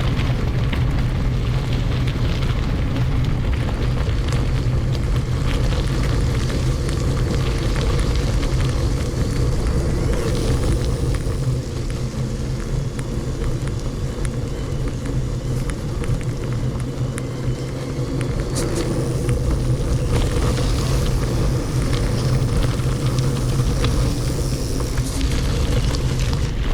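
Steady rumble of wind on the microphone and mountain-bike tyres on a gravel forest road, with scattered small clicks and rattles, sped up to double speed.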